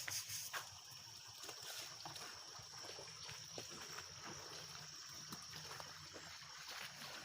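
Faint trickling of river water, with a steady high-pitched tone and a few small ticks over it.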